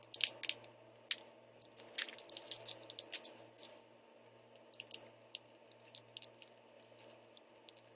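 Plastic hot-sauce sachets crinkling and being squeezed out over noodles: irregular sharp crackles with a soft squish, thick in the first few seconds and sparser after that.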